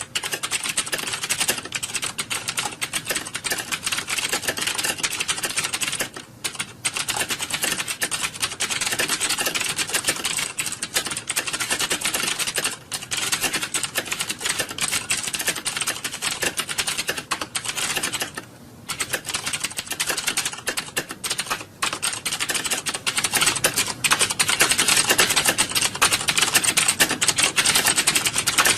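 Many computer keyboards being typed on at once, as in a typing-test exam hall: a dense, continuous clatter of key clicks. It thins briefly a few times and grows louder over the last few seconds.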